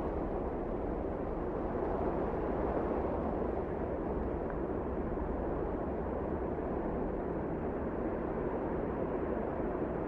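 Wind blowing steadily, a deep, even rush with no gusts or breaks.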